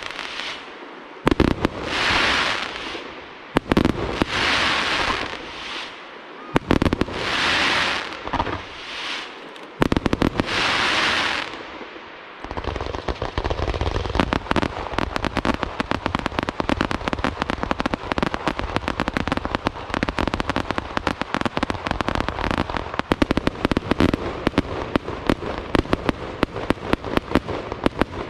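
Aerial fireworks display: sharp bangs, each followed by a hissing, crackling shimmer about a second long, repeating every couple of seconds. About twelve seconds in this gives way to a dense, rapid barrage of bangs and crackles that keeps going.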